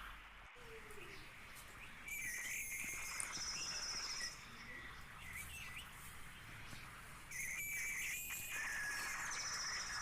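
Parrot calling: two stretches of high-pitched calls, the first starting about two seconds in and the second starting past the middle and running on.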